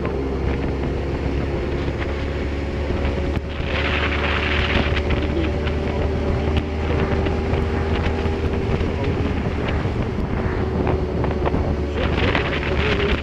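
Steady road and engine drone heard inside a moving car, a low rumble with a constant hum over it. A rushing hiss swells up about four seconds in and again near the end.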